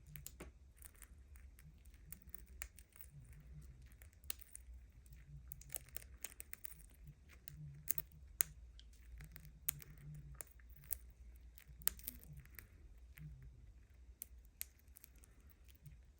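Budgie pecking at a toy: a long run of irregular sharp taps and clicks over a low steady hum.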